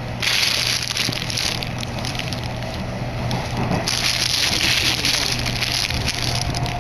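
Commuter train running, heard from inside the carriage as a steady low rumble. Over it come two spells of loud, crackling hiss: one about a second and a half long just after the start, and another from about four seconds in.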